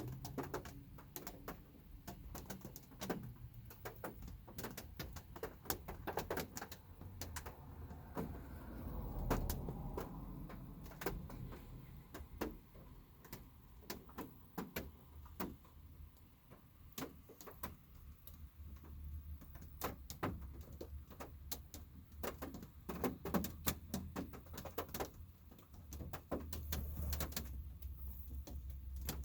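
Light rain heard from inside a car: scattered raindrops tapping on the car in irregular clicks, over a low steady hum.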